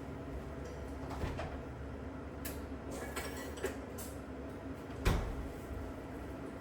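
A few short knocks and scrapes over a steady low outdoor background, the loudest a single thump about five seconds in.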